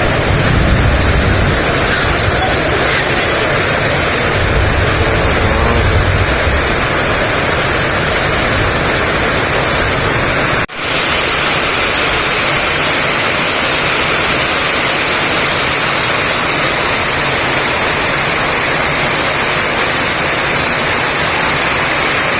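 Heavy rain pouring down in strong wind, a loud steady rush, with low rumbling gusts in the first several seconds. The sound breaks off for an instant about halfway through.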